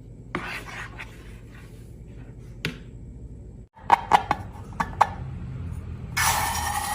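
Handling of slime-making materials: a few sharp taps and clicks, then a steady scraping and rubbing starts near the end.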